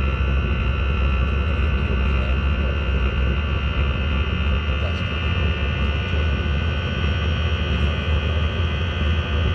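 Diesel air heater running: a steady low roar with several steady high whining tones over it, the jet-engine-like noise that the owner suspects comes from a worn bearing.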